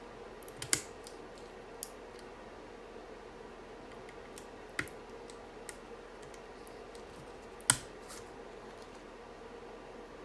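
Scattered sharp plastic clicks and taps from a UT47.2 40% mechanical keyboard being handled during its build, with two loud clicks about a second in and about three-quarters through and a few fainter ones between, over a steady low hum.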